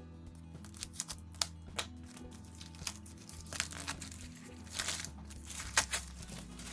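Plastic packaging crinkling in short bursts as craft-kit contents are handled and unwrapped, over soft background music.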